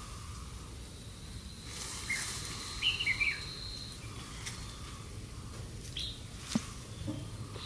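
Outdoor field ambience with a few short bird chirps about two to three seconds in, over a steady low rumble and a thin high tone. A couple of faint clicks come near the end.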